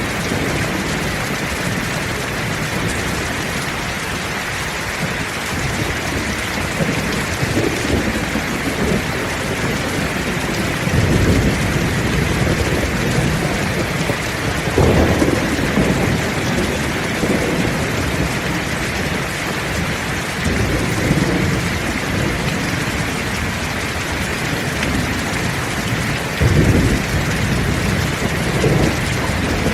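Heavy rain falling steadily, with rolls of thunder rumbling in low several times, the strongest about 11, 15 and 27 seconds in.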